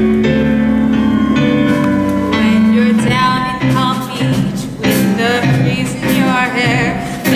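Musical-theatre accompaniment sustaining held chords. About three seconds in, a woman's singing voice with vibrato enters over it.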